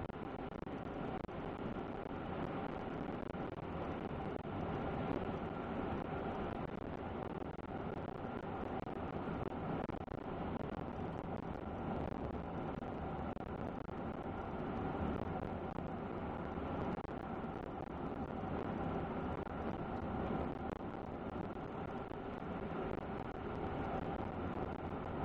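Truck driving at a steady speed: a steady rumble of road and engine noise that does not change.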